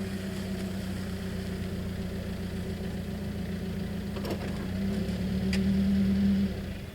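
Car engine running steadily at an even pitch, growing slightly louder, then shutting off about six and a half seconds in. Two faint clicks come near the end.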